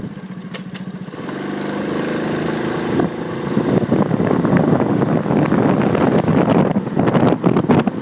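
Motorcycle engine pulling away, its note picking up and growing louder over the first three seconds, then wind rushing over the handlebar-mounted phone's microphone as the bike rides on.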